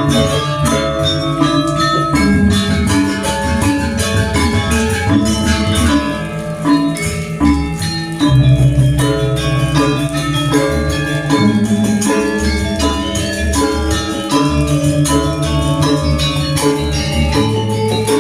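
Balinese gamelan music: metallophones struck in rapid, dense patterns over sustained low tones.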